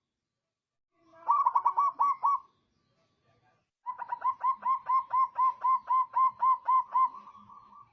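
Zebra dove (perkutut) cooing: a short phrase of about five quick notes about a second in, then from about four seconds a longer run of a dozen or more evenly spaced, rhythmic notes that trails off near the end.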